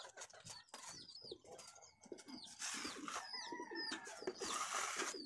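Small birds chirping over and over in short, high, downward-sliding chirps. Two brief bursts of rustling noise come around the middle and near the end.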